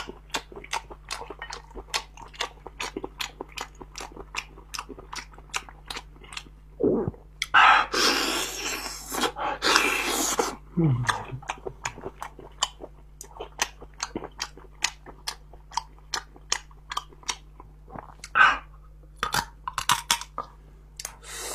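Close-miked wet chewing and lip smacking on spicy snail meat, with quick clicks about two to three a second throughout. About seven seconds in comes a loud sucking slurp lasting about three seconds as snail meat is drawn out of the shell, with shorter slurps near the end.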